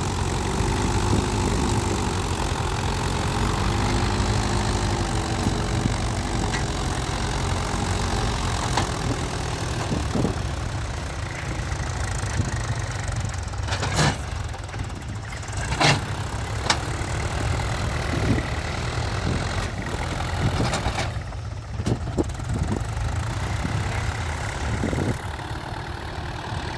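Mahindra Yuvo tractor's diesel engine running. Its pitch rises and falls through the first several seconds, then it settles into a steadier throb, with a few sharp knocks around the middle.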